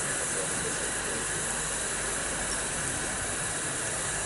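Steady, even hiss from a train, holding at one level throughout.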